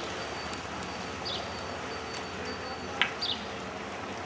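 Small bird chirping: short high notes that fall in pitch, repeated every second or so over a steady background noise. A single sharp knock about three seconds in.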